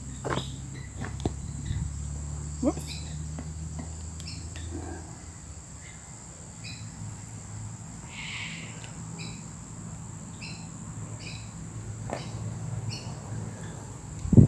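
Insects calling: a steady high-pitched drone with short chirps repeating about once a second.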